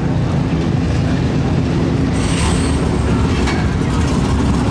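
Steady low engine rumble of vehicles, with a brief hiss about two seconds in and a click about a second later.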